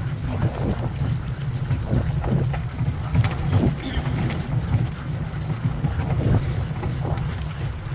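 Sled dog team pulling a wheeled cart along a gravel trail: a steady rumble of wheels on gravel, with irregular crunching and the patter of running paws.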